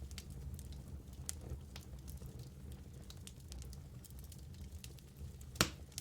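Wood fire burning in a fireplace: a low steady rumble of flames with scattered crackles and snaps from the logs, and one louder pop near the end.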